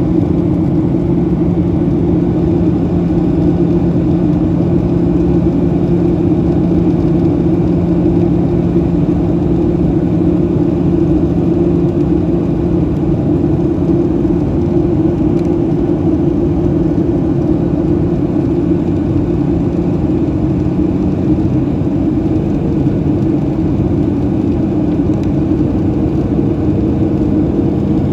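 Boeing 737-700 cabin noise in flight: a steady, loud drone of its CFM56-7B turbofan engines and rushing air, with a constant low hum.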